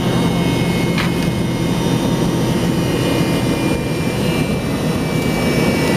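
McDonnell Douglas MD-88's rear-mounted Pratt & Whitney JT8D turbofan engines running steadily, heard from inside the cabin near the tail: a constant roar with a low hum and a thin high whine.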